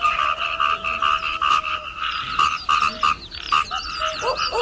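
Frogs calling in a chorus: pulsed croaks repeating about three to four times a second, with more overlapping calls and short higher chirps joining about two seconds in.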